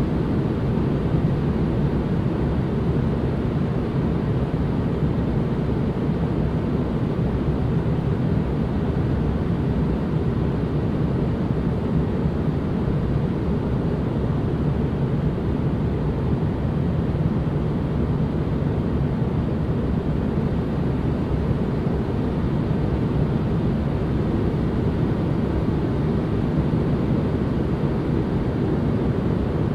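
Continuous white noise ambience: an even, unchanging rush, heavy in the low end like a deep rumble, with a softer hiss above it.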